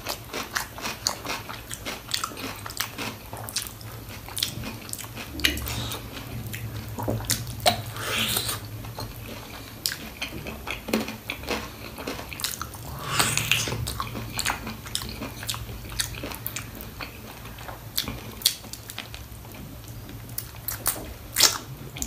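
Close-miked eating: a person chewing and biting goat trotters with gravy and rice, with many irregular wet clicks and smacks, and two longer noisy sounds about 8 and 13 seconds in.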